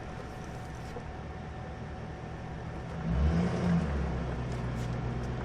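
Car engine and road noise heard from inside a moving vehicle, steady, with a louder low rumble starting about three seconds in.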